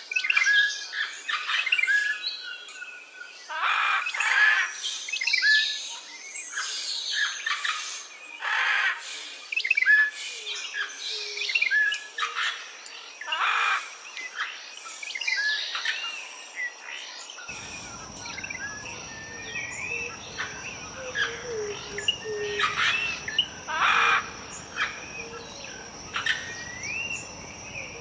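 Wild birds chirping and calling, many short whistled calls overlapping. About halfway a steady high whine joins in, and a low hiss comes in soon after.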